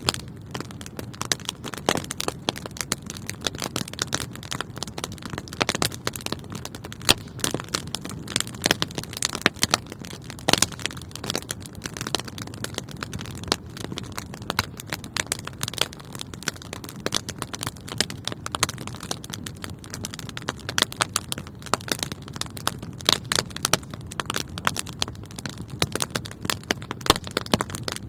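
Wood fire crackling in a fireplace: dense, irregular crackles and pops over a steady low rumble of burning flames.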